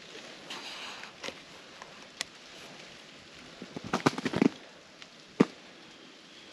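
Ice cracking and crunching: a few scattered sharp clicks, then a quick cluster of crunches about four seconds in and one sharp crack about a second later.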